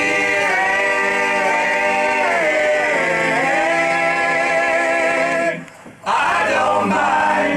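A long sung note is held with vibrato. Its pitch slides down and back up about three seconds in. It breaks off about five and a half seconds in, and a second held vocal phrase follows.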